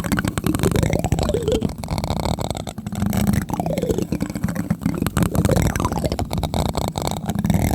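Plastic spoon tapping rapidly and gently on a microphone: a dense run of close, muffled taps with a deep boom.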